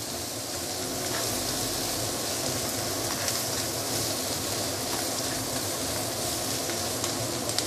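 Shredded cabbage and carrot sizzling steadily in a non-stick wok while being tossed with wooden chopsticks.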